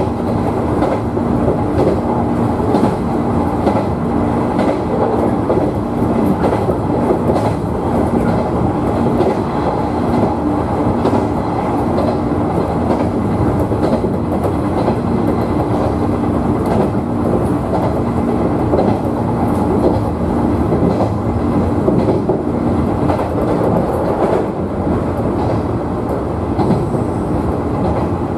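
JR 113-series electric train running between stations, heard from inside the train: a steady rumble of wheels on rail with repeated rail-joint clicks. A steady motor hum drops away near the end.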